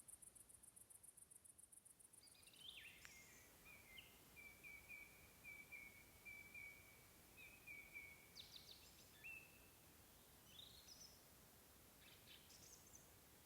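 Faint birdsong: a few short calls, then a run of quick, evenly repeated notes on one pitch lasting about three seconds, with scattered chirps after it. A fast, high-pitched ticking fades out in the first two seconds.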